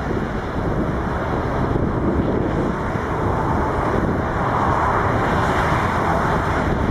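Boeing 747-8 Freighter's GEnx jet engines running, a steady roar heavily buffeted by wind on the microphone, swelling a little about halfway through.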